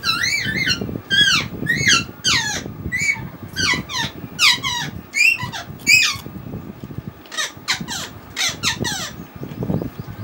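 A bird calling in quick, high, squeaky chirps, each one a short falling or arching note, repeated many times and stopping about nine seconds in. Wet eating sounds from rice mixed by hand and chewed lie underneath.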